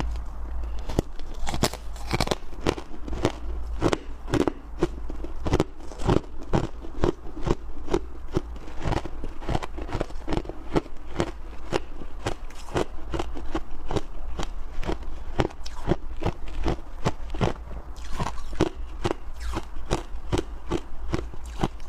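Close-miked crunching and chewing of soft, powdery freezer frost and ice chunks: crisp crunches roughly two to three a second, all the way through, over a steady low hum.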